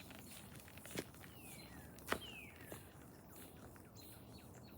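Quiet outdoor ambience with two short chirps falling in pitch from a bird, about a second and a half and two seconds in, and two soft clicks about one and two seconds in.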